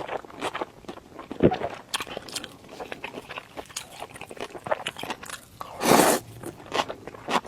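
Close-miked eating of chewy cold beef tendon noodles: wet chewing and smacking clicks, with a longer, louder slurp about six seconds in.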